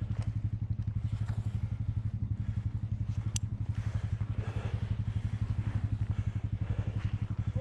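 ATV engine idling steadily with an even, rapid beat. A single sharp click sounds about three and a half seconds in.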